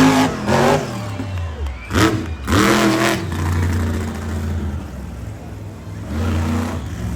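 Monster truck engine revving in short, sharp bursts that rise in pitch about two and three seconds in, then dropping to a lower, steadier run before picking up again near the end.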